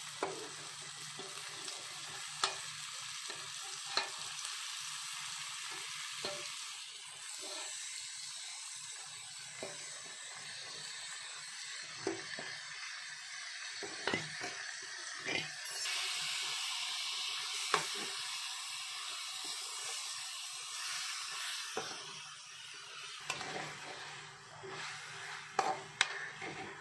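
Raw chicken pieces sizzling in a hot pan of onion-tomato masala as they are stirred, a steady sizzle with sharp clicks of the stirring spoon against the pan now and then. The sizzle grows louder for a few seconds past the middle.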